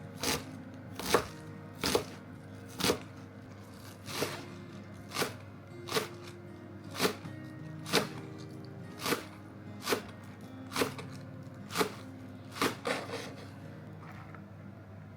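Knife chopping vegetables on a cutting board, one cut about every second, some in quick pairs, over background music.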